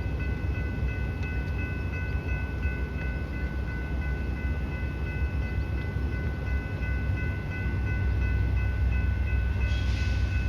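Train rumbling steadily with several steady high-pitched tones ringing over it, growing louder near the end.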